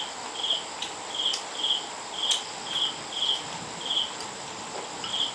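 A cricket chirping in short, high chirps about twice a second, with a few faint clicks.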